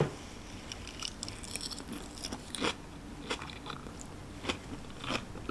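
A person chewing a mouthful of crisp lettuce salad close to the microphone, with a series of irregular crunches.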